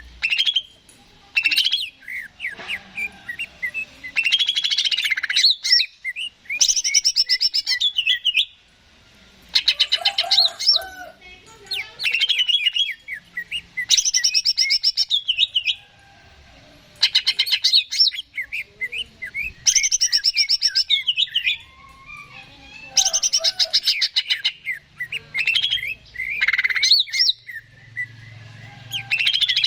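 Cucak ijo (green leafbird) singing in repeated bursts of fast, high chattering and whistled notes, each burst lasting one to two seconds with short pauses between. A faint low rumble comes in near the end.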